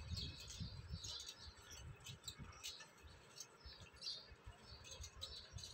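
Faint, scattered high-pitched chirps of small birds, over a low uneven rumble.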